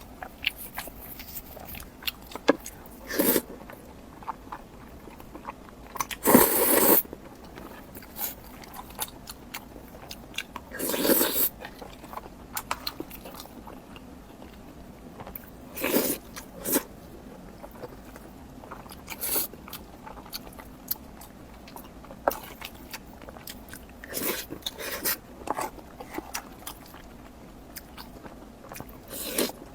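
Close-up eating sounds: a person biting and crunching food, with small wet clicks of chewing in between. About half a dozen louder crunches of under a second each are spread through, the loudest about six seconds in.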